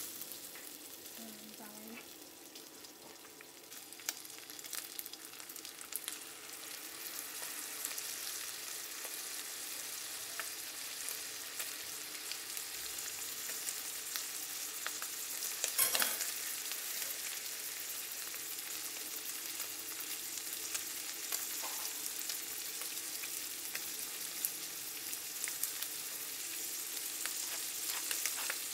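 Rice, corn and chicken sizzling in a stainless steel frying pan: a steady crackling hiss with scattered pops, and one louder knock about halfway through.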